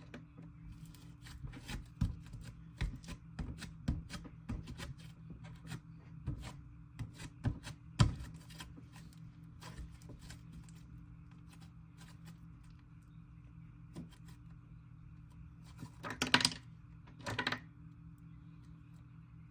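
Slime being squished and stretched by hand: a quick run of sticky clicks and pops that thins out, then two louder squelches near the end.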